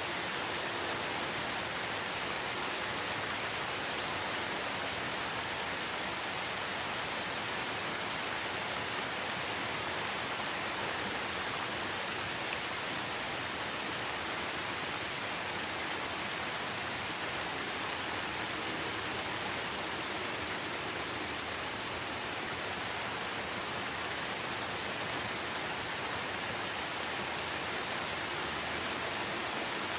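Rain falling steadily and evenly, with no thunder or other sound standing out.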